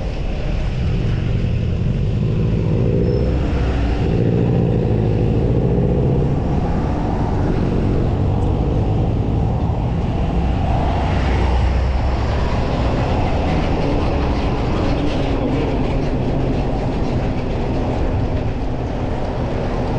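Steady low rumble of road traffic and wind on the microphone, heard from a moving bicycle.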